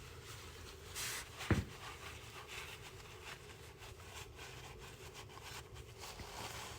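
Faint handling noises of transmission parts and tools: a brief scrape about a second in, a single sharp knock just after, then small scattered clicks.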